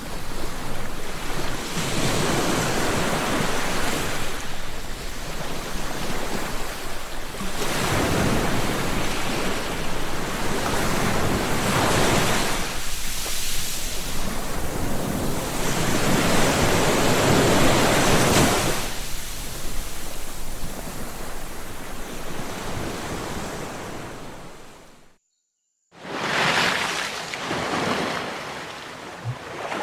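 Sea waves breaking and washing on the shore, rising and falling in surges every few seconds. Near the end the sound cuts out completely for about a second, then the waves start again.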